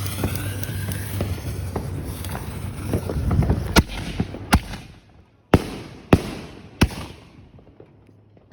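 Fireworks going off. A stretch of hiss with small pops leads into about five sharp, loud bangs in quick succession, between about four and seven seconds in, each trailing off briefly.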